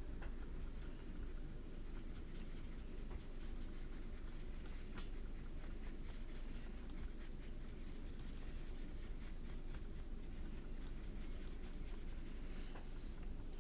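Soft, scratchy strokes of coloring on a coloring-book page, faint and irregular, over a low steady hum of room background.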